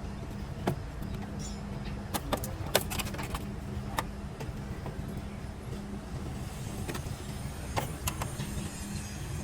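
Steady low hum with a held tone, over which sharp clicks and knocks sound irregularly, a cluster about two to four seconds in and two more near the end.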